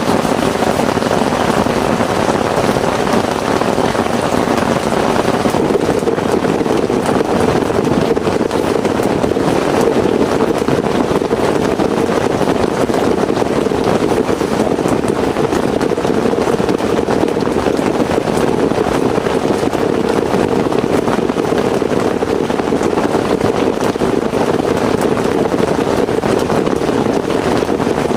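Heavy rain falling steadily, a dense even wash of drops that does not let up.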